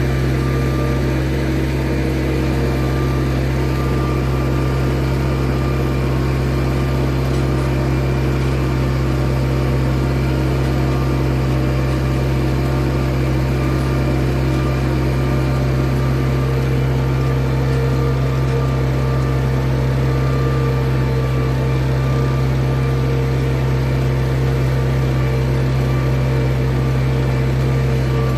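Tractor engine running steadily at one constant speed while disk ploughing: a loud, unbroken low drone.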